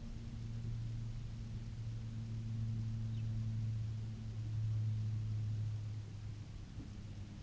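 Low, steady engine hum from a distant motor vehicle, growing louder through the middle and easing off near the end.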